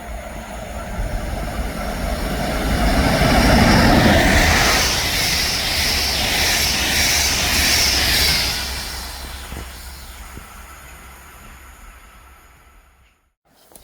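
A train passing a station halt at speed: rumble and rail noise build up, stay loud for several seconds with faint regular wheel clicks, then fade away. The sound cuts off abruptly near the end.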